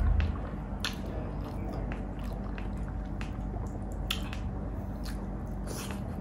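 Close-miked eating sounds: wet chewing and lip smacking with a few sharp mouth clicks, over a steady low hum. A dull thump comes right at the start.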